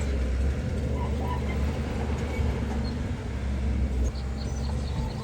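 Heavy diesel earthmoving machinery running steadily with a deep, low engine sound.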